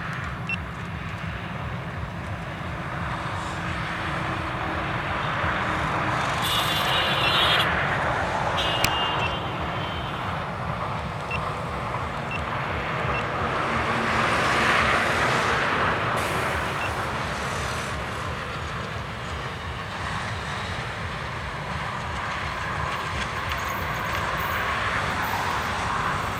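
Nilsagar Express passenger train running on the rails: a steady low rumble of wheels on track that swells and eases in waves, with brief high squeals about seven and nine seconds in.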